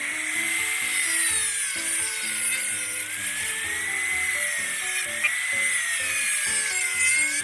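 High-speed power tool running steadily, its whine wavering up and down in pitch as the load changes, with a hiss above it. Background music plays underneath.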